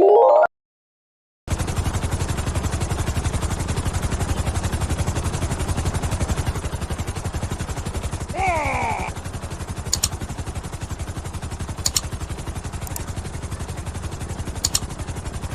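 A helicopter running, with a steady, rapid chopping pulse that starts about a second and a half in. Before it there is a short rising slide-whistle sound and a brief silence. A short gliding whistle-like sound comes about halfway through, and there are a few sharp clicks near the end.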